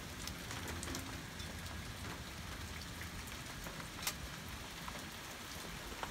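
Steady rain falling, with scattered sharp taps of drops, one of the clearest about four seconds in.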